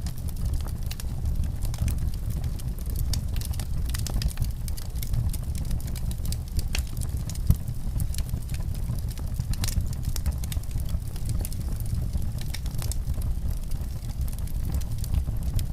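Wood fire in a fireplace crackling: frequent sharp pops and snaps over a low steady rumble.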